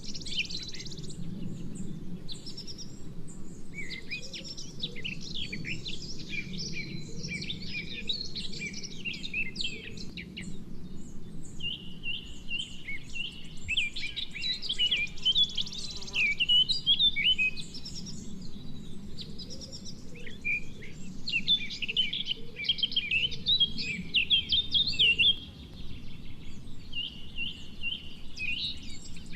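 Wild songbirds chirping and singing, many short, quick notes overlapping throughout, over a low steady background noise.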